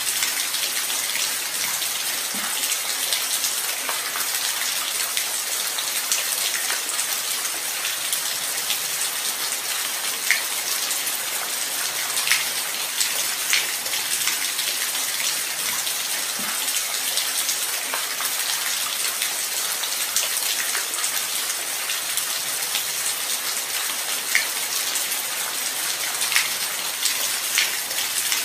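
Steady light rain: an even hiss of falling rain with scattered individual drops ticking sharply, a few louder drops standing out now and then.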